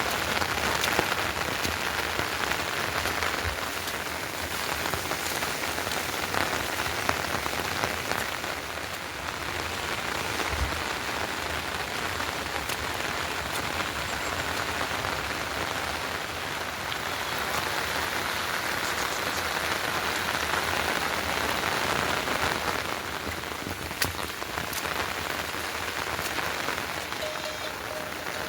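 Heavy rain falling steadily, its hiss swelling and easing every several seconds, with scattered sharper drops.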